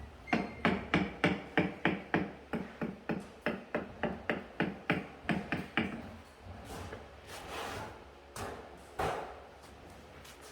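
A hammer striking about twenty quick, even blows, three to four a second, stopping about six seconds in, followed by a few scraping sounds and a single knock.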